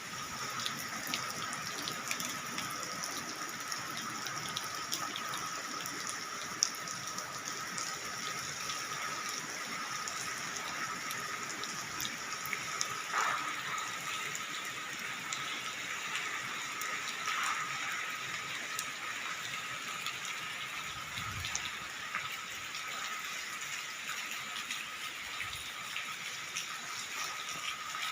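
Steady rain falling, with scattered ticks of drops striking and a faint steady high tone running through it.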